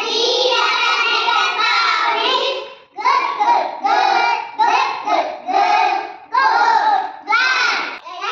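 Young children chanting phonics sounds in a sing-song voice, held together at first, then in short separate syllables from about three seconds in.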